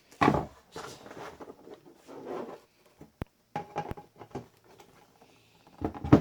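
Plastic monitor stand parts being handled and fitted together: irregular scraping and knocking, with a sharp click about three seconds in and a louder knock near the end.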